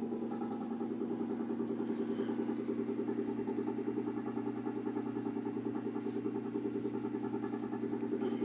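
Steady buzzing hum with a rapid, even pulsing, coming from a sink drain and heard only while the air conditioning is running; the owner believes the tube under the sink has something to do with it.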